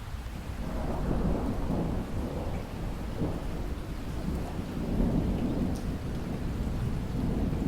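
Thunderstorm: a long, low thunder rumble builds about a second in and rolls on over steady falling rain.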